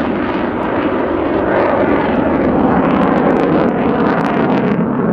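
Loud jet noise from an F-16 Fighting Falcon's F110 turbofan engine as the fighter flies past, steady and rushing, with a crackle in the upper range in the second half.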